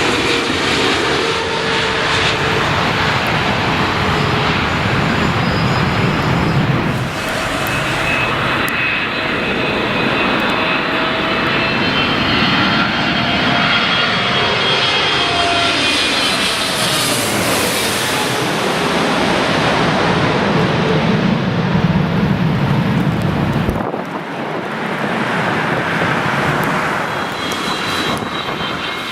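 Jet airliner engines running loud and close, with whining tones that sweep downward in pitch as an aircraft passes. The sound changes abruptly about 7 and 24 seconds in, where separate clips are joined.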